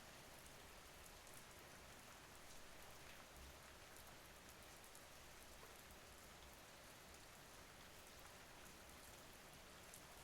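Faint, steady rain: an even hiss with a light patter of individual drops.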